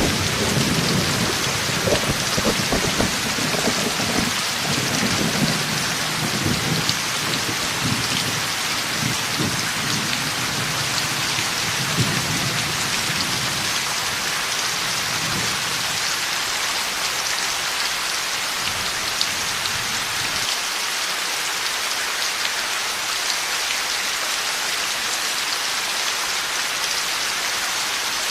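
Heavy rain pouring steadily, with a long low rumble of thunder through the first half that dies away, leaving only the rain.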